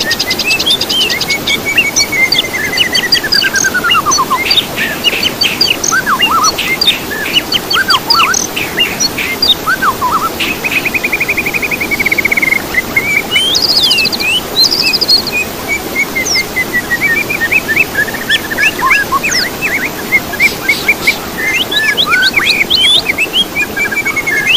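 Several songbirds singing at once: a busy mix of quick chirps, fast trills and long falling whistles, over a steady hiss.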